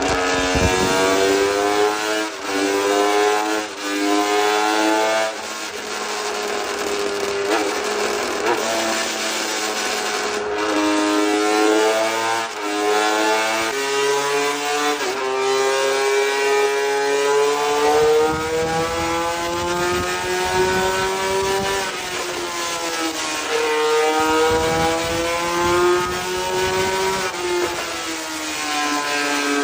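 Honda RC213V-S's 90-degree V4 racing engine revving hard on a dynamometer. Its pitch climbs and falls back again and again, in quick short sweeps for the first few seconds and in longer climbs later.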